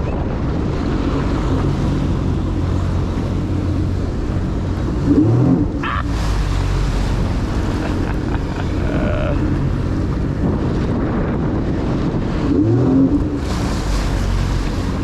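Jet ski engine running steadily under way, with wind buffeting the microphone. The engine swells briefly louder twice, about five seconds in and near the end.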